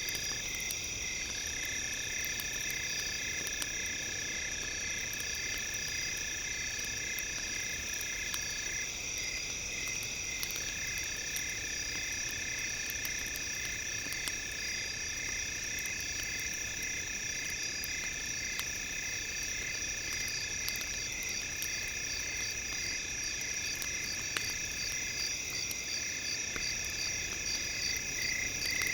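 Synthetic tones layered on campfire crackle: several steady high-pitched electronic tones, some pulsing rapidly and evenly, over faint crackling of a wood fire. One of the lower tones drops out briefly a few times.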